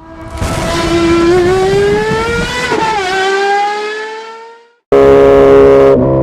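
Suzuki Hayabusa inline-four engine accelerating hard, its pitch climbing, with a brief dip about three seconds in as it shifts up, then fading away. An abrupt cut brings in a loud, steady engine note that drops slightly near the end.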